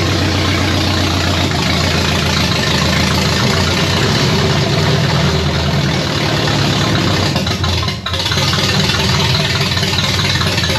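Chevy 327 small-block V8 running steadily at a fast idle through new headers on its first start, with a brief dip about eight seconds in. It is running on fuel primed into the carburettor's float bowl while the fuel filter stays dry, because the pump is not picking up.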